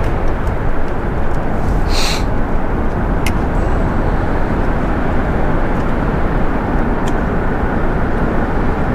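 Steady low rumbling noise with hiss, even throughout, with a couple of faint ticks about two and three seconds in.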